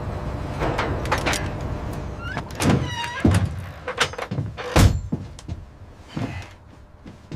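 A series of sharp knocks and clunks, irregularly spaced, over a low steady rumble that dies away about three seconds in. A short squeaky rising tone sounds among the first knocks.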